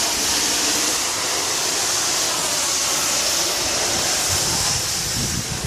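Garden hose spraying a steady jet of water, rinsing soap off a car.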